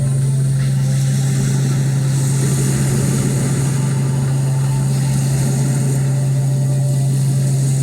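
Amplified band instruments holding one loud, unchanging low drone under a dense noisy wash, with no singing.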